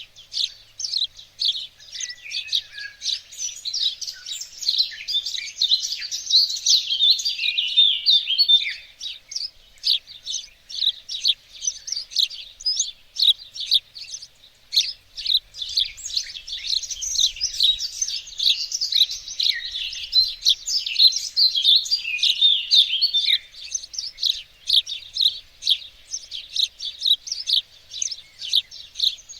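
Songbirds singing and chirping in a dense, unbroken chorus of quick high chirps and trills.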